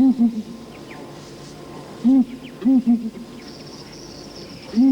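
Southern ground hornbills booming: deep hooting notes in groups of two or three, one group at the start, another about two seconds in and a third near the end. A faint, high insect buzz joins from about three and a half seconds in.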